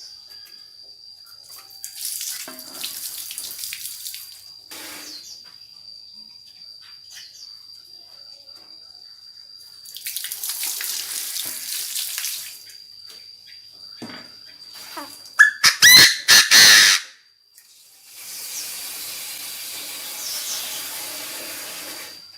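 Chinese francolin (decoy bird) giving one loud burst of harsh, rising calls about two-thirds through. Around it are three stretches of rushing noise and a faint steady high tone.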